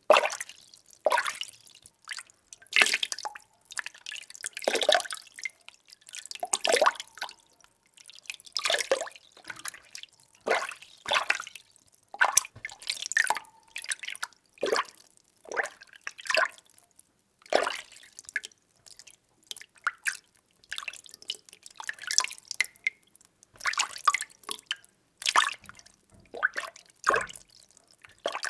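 Water being stirred: repeated short sloshing and splashing strokes, about one a second and a little irregular, with brief quiet gaps between them.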